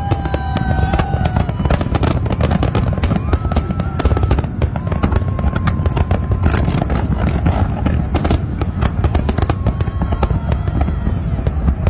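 Large aerial fireworks display: a continuous barrage of overlapping shell bursts and crackling, many bangs a second with no let-up.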